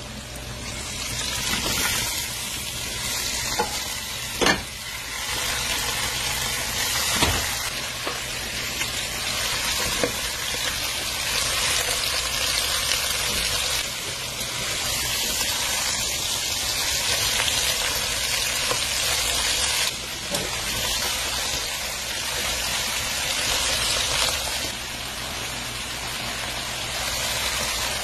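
Steady sizzling of food frying in hot oil in a pan, with a few sharp knocks scattered through it.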